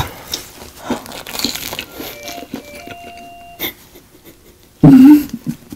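Biting into and chewing a crispy breaded Korean hotdog, with soft crunching and mouth clicks. A short, loud vocal sound comes about five seconds in.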